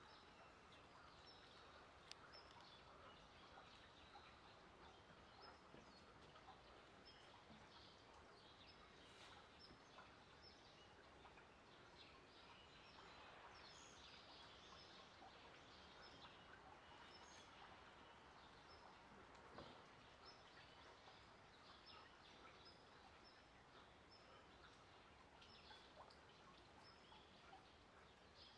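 Near silence: faint outdoor ambience with small birds chirping, short high calls repeated many times.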